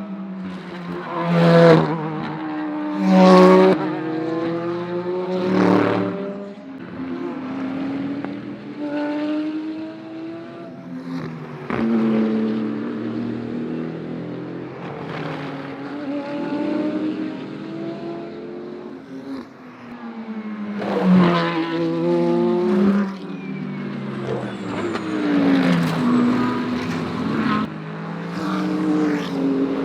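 GT3 race cars' naturally aspirated V8 engines at racing speed as several cars pass one after another. The engine notes climb and drop with gear changes, and each falls in pitch as the car goes by. The loudest passes come in the first few seconds and again a little after twenty seconds.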